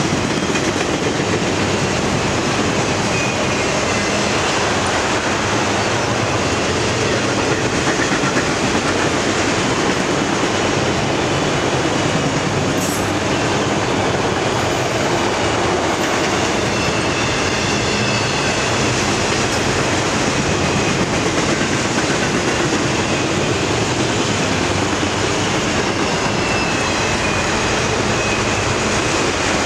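Autorack freight cars rolling past at speed: a steady, loud rumble and roar of steel wheels on the rails, with faint high wheel squeals now and then.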